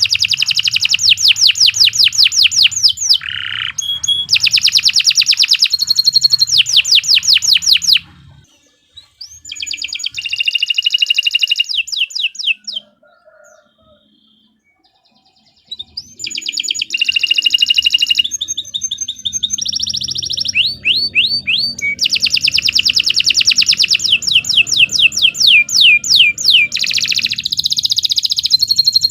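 Domestic canary singing: long, loud runs of fast trills, each a rapid string of repeated high notes. The song breaks off about eight seconds in, gives a short burst, then pauses for about three seconds before resuming in long trills.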